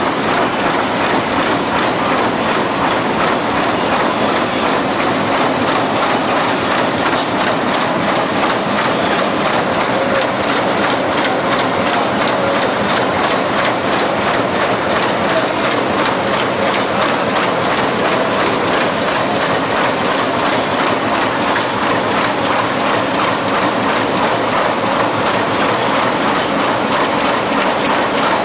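Best Chen BC-200 automatic book thread sewing machine running, a steady rapid mechanical clatter.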